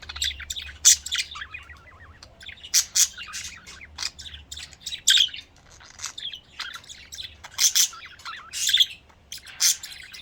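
Pet budgerigars chirping and warbling, a busy run of quick, high chirps and trills one after another.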